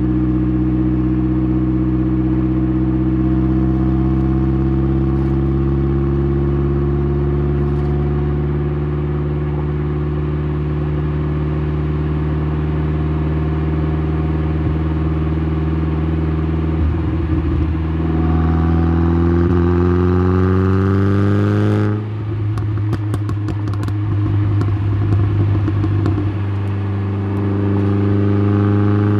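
Exhaust note of a tuned Saab 9-3's turbocharged 2.0-litre four-cylinder, picked up at the tailpipe. It drones steadily with its pitch creeping up, then climbs faster for a few seconds under acceleration and drops off sharply on lifting off, followed by a few seconds of crackling and clatter before settling back into a steady drone that starts to rise again near the end.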